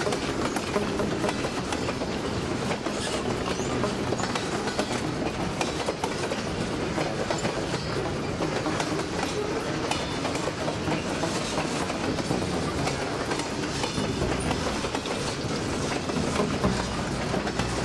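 Freight train cars rolling past right beside the track: steel wheels running on the rails in a steady rumble, with many clicks as the wheels cross rail joints.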